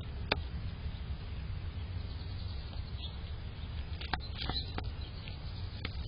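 Small birds at a bird-cam trellis: a few short sharp ticks, one just after the start and three close together about four seconds in, over a steady low rumble.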